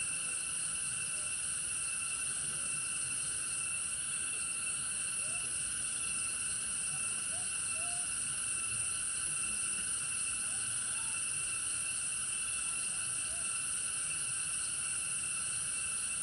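Insect chorus: a steady, high-pitched drone that holds one even pitch pattern without a break, with a few faint short chirps lower down.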